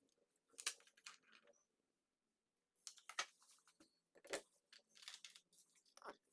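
Faint irregular clicks, scrapes and rustles of small parts or tools being handled.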